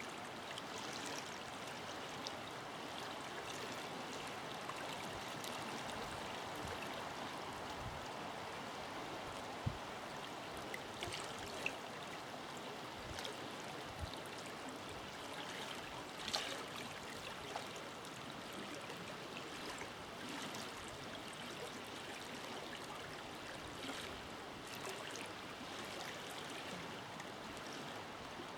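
Forest river flowing steadily, a continuous rush of water with small splashes and gurgles scattered through it.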